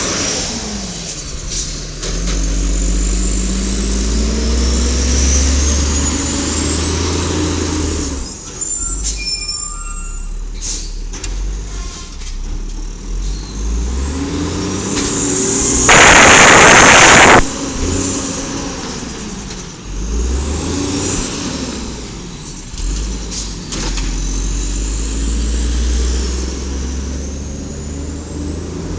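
Garbage truck's engine revving up and down in two long spells, with a loud air-brake hiss about halfway through that lasts about a second and a half, and scattered clicks and whines in between.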